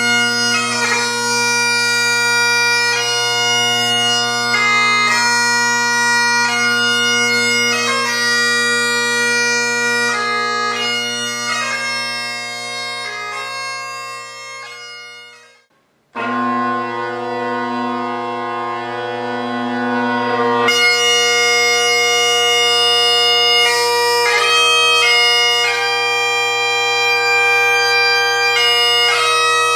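Great Highland bagpipe with MacLellan Royal Mexican Ebony drones, Ezee drone reeds and a blackwood chanter, playing a tune over the steady drone. About halfway through the sound dies away to a brief silence. The pipes then strike in again with the drones and one long held chanter note, and the tune resumes a few seconds later.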